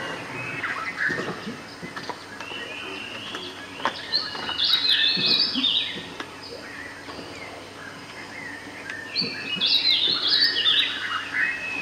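Birds calling: two loud bursts of rapid, high chirping notes that step up and down in pitch, one about four seconds in and one near the end, with fainter calls between.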